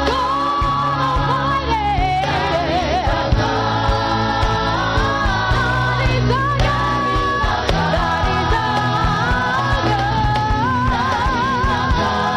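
Church choir singing a gospel song, with band accompaniment: sustained bass notes and a steady drum beat under a lead voice with vibrato.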